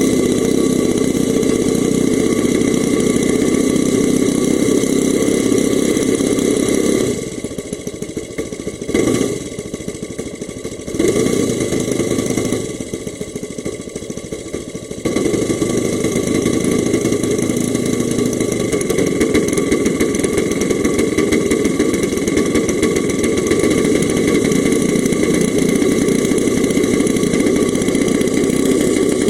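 Saito FA-125 four-stroke glow engine of an RC model aerobatic plane running at high power. About seven seconds in the sound drops to a lower level, broken by two short bursts, then returns to full power about eight seconds later.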